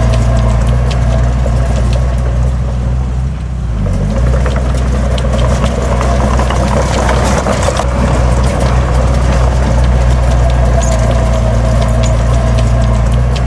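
Heavy diesel engine of earthmoving equipment running steadily, with frequent clanks and knocks over it; the engine sound dips briefly about three and a half seconds in.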